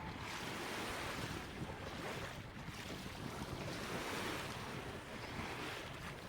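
Small sea waves washing onto a sandy beach, the wash swelling and fading about every two seconds, with wind rumbling on the microphone.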